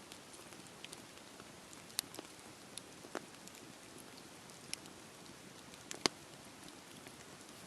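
Campfire crackling in the rain: a steady patter of rainfall with a few sharp pops from the fire, the loudest about six seconds in.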